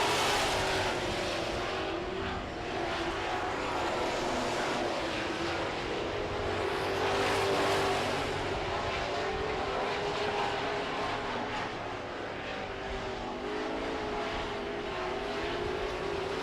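Several Super Truck race engines running at speed around a dirt oval, a steady engine drone that rises and falls gently as the trucks circle.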